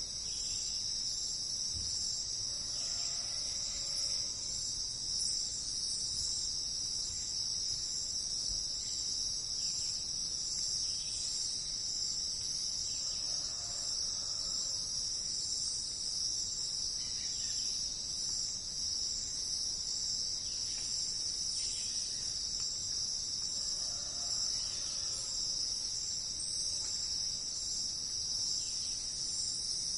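Steady, high-pitched insect chorus that goes on without a break, with faint softer calls recurring about every ten seconds beneath it.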